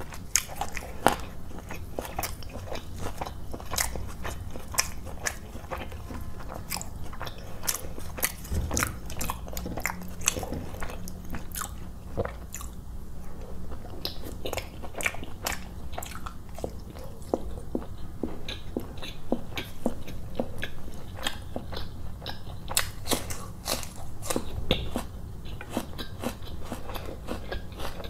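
Close-miked chewing of roti dipped in chicken curry, with many irregular sharp wet clicks and smacks of the mouth and the occasional crunch.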